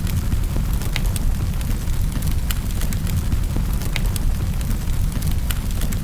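Wood fire in a fireplace crackling: sharp pops and snaps every half second or so over a steady low rumble.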